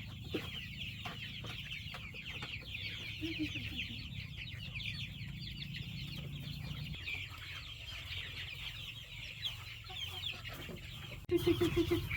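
Chickens clucking and calling, with many short high chirping calls throughout. A louder run of quick repeated clucks starts near the end.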